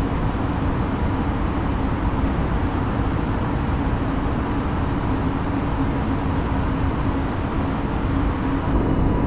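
Airbus A320neo cabin noise: the steady roar of the engines and airflow, with a faint low hum running under it.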